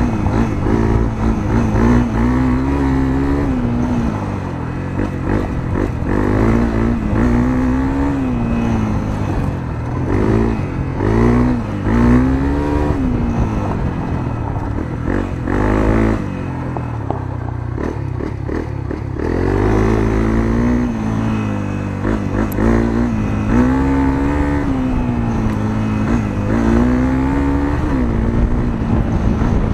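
Honda CRF250L's single-cylinder four-stroke engine breathing through a Moriwaki aftermarket muffler, heard from on board while riding. The engine note repeatedly rises and drops back as the rider accelerates and shifts. It eases off to a lower note for a couple of seconds a little past halfway.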